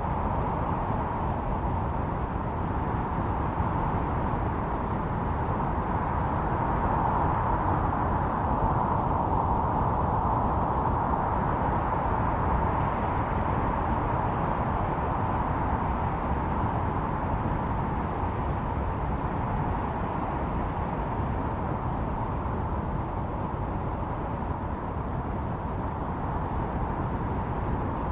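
Blizzard wind blowing steadily, a rushing noise with a hollow whistling tone in it that swells a little in the middle and then eases.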